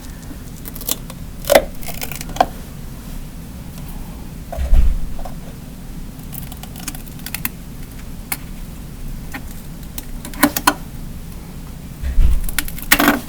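Scattered small clicks and taps from handling tweezers, a plastic container and a sticky board, with two dull low thumps about five and twelve seconds in.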